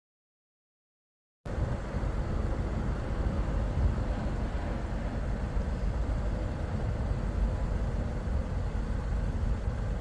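Steady low rumble of a moving car's road and wind noise, heard from inside the cabin. It starts abruptly about one and a half seconds in, after dead silence.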